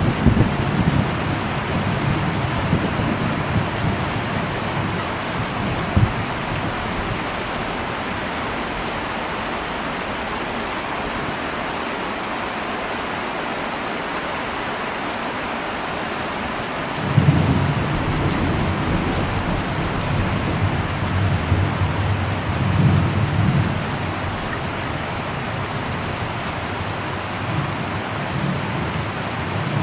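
Heavy rain falling steadily on an old metal roof, with thunder. One roll rumbles through the first few seconds and there is a single sharp crack soon after. Another roll begins suddenly a little past halfway and rumbles on for several seconds.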